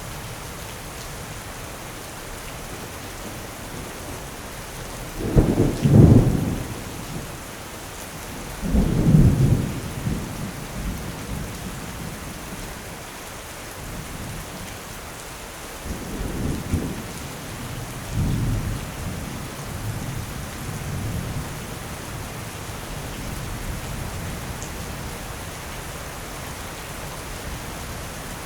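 Steady rain falling through a thunderstorm. Thunder cracks loudly about five seconds in and again about four seconds later, then rolls lower and weaker twice around the middle before dying away.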